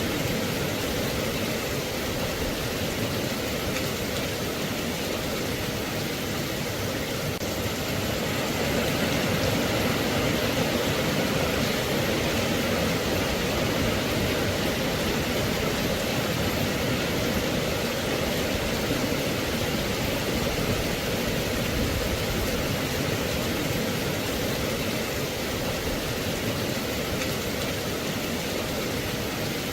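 Steady rain: a continuous, even hiss that gets a little louder about eight seconds in.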